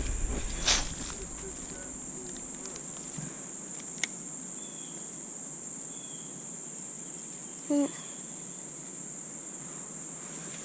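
Crickets trilling steadily in one continuous high-pitched tone. There is a sharp click about four seconds in and a short low sound near the end.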